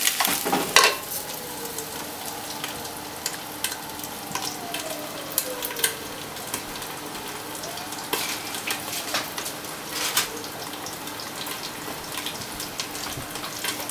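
Marinated chicken pieces sizzling in a nonstick frying pan over a gas flame, with a spatula stirring and clattering through them in the first second. They then go on frying steadily under a glass lid, with scattered crackles and pops.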